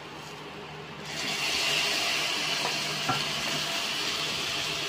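Fried chicken pieces dropping into hot oil with sautéed garlic and onion in a steel pan, setting off a loud, steady sizzle about a second in. A couple of light knocks come from the wooden spoon.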